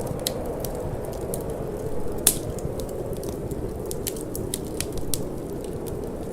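Wood fire crackling in a fireplace, a rapid scatter of small sharp pops with one louder pop about two seconds in, over a steady low rush of wind.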